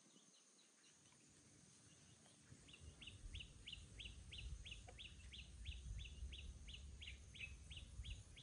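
A bird calling in a fast, even run of short high chirps, about four a second, starting a few seconds in, over a faint low rumble of wind on the microphone.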